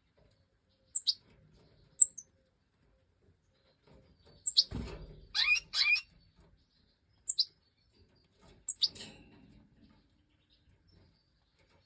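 Stieglitz Major goldfinches giving short, sharp chirps: single calls spaced a second or more apart, with a quick cluster of several calls near the middle, along with a soft rustle or thump.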